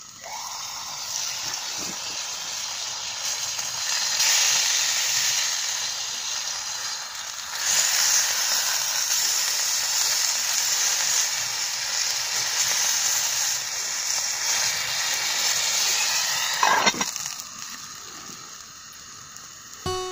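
Food sizzling in a hot pan: a steady frying hiss that grows louder about four seconds in and again near eight seconds, then falls away after a brief sharp sound near seventeen seconds.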